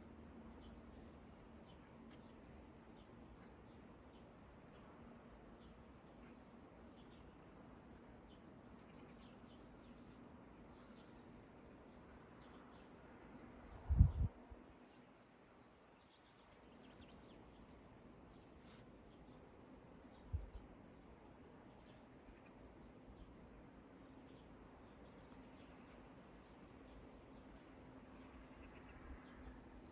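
Crickets chirping in a steady high trill, broken by a dull low thump about halfway through and a smaller one about six seconds later.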